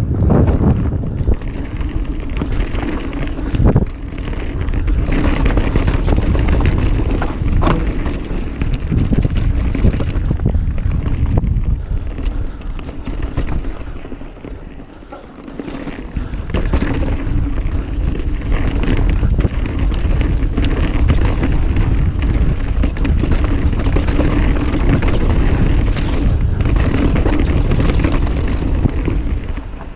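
Mountain bike ridden fast down a dirt trail: wind buffeting the action-camera microphone over tyre noise on dirt and the rattle of chain and frame over bumps. It eases to a quieter stretch about halfway, then picks up again.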